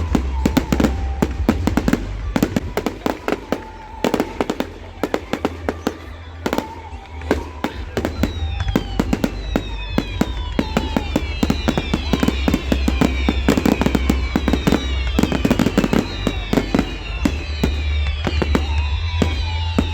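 Fireworks display: a rapid, continuous string of bangs and crackles. From about eight seconds in come many whistles falling in pitch. Music plays through loudspeakers underneath.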